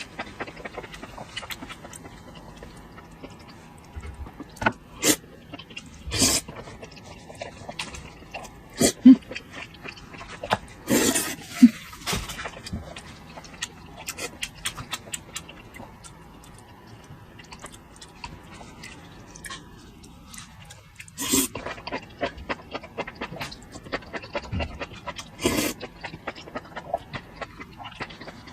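Close-up eating sounds of boiled pig organs: irregular wet chewing, smacking and clicks, with a few louder bursts.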